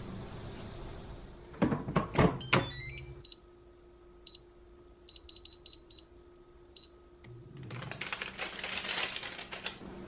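Air fryer basket pushed into place with a few clunks, then eight short high beeps from the air fryer's touch control panel, five in quick succession, as the temperature and timer are set. Near the end comes a stretch of crinkly paper rustling.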